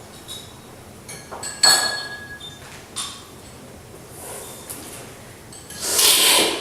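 Ceramic or glass cups and tableware clinking, with one sharp ringing clink about two seconds in and a few lighter knocks. Near the end comes a short, loud rushing noise.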